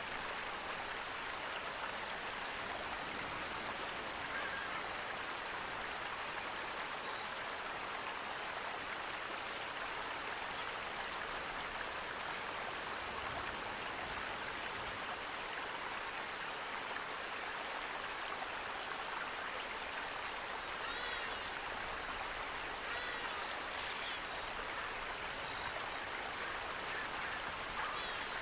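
Running water, a stream or waterfall, rushing with a steady even hiss. A few faint bird chirps come through about two-thirds of the way in.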